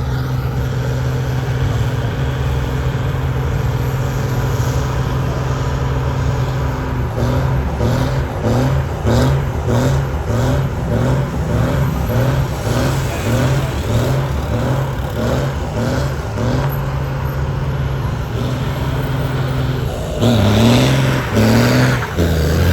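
Truck engine running steadily, then revved in quick short blips about one and a half times a second for several seconds, settling, then revved hard twice near the end.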